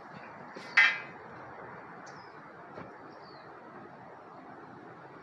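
Small birds chirping faintly over a steady outdoor background hiss, with one short, loud, harsh call about a second in.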